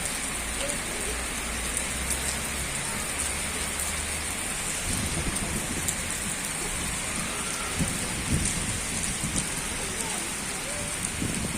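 Heavy downpour: steady rain pouring and splashing on surfaces, with a low rumble underneath for the first four seconds or so and a few heavier low thuds later on.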